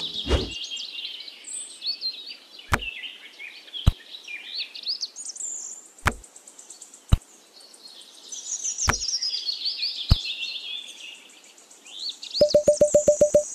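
Birds chirping and twittering, with about half a dozen sharp, separate clicks of small stones being set down on a hard board. A quickly repeating plucked musical note starts near the end.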